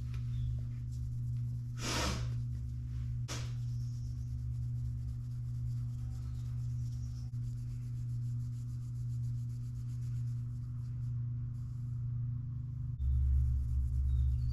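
A steady low mechanical hum, with two short rubbing or hissing noises about two and three seconds in. The hum grows deeper near the end.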